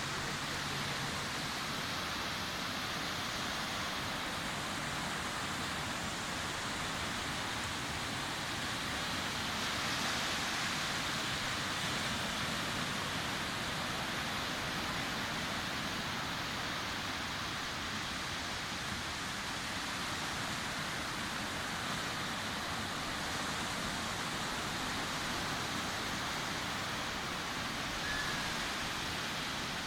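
Sea waves washing onto a beach in a steady, continuous wash, swelling slightly about ten seconds in.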